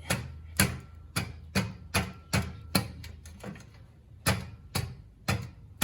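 Mallet blows knocking a stuck muffler loose from a motorcycle exhaust pipe. There are about ten sharp strikes, roughly two a second, with a short pause a little past halfway.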